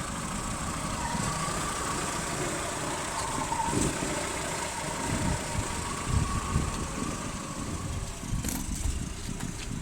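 VW Passat B2 engine running at a steady idle: an even low rumble with a faint wavering whine above it, and a few faint clicks near the end.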